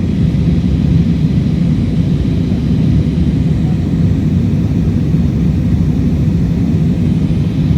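Low-flying aircraft's engines droning as a steady low rumble.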